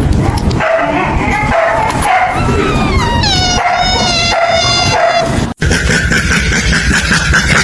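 Dog whining in long drawn-out cries, the pitch sliding down partway through. About five and a half seconds in the sound cuts off abruptly to a steady higher tone.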